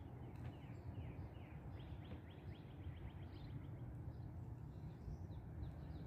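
Wild songbirds chirping, with a quick run of short falling notes about halfway through, over a low steady background rumble.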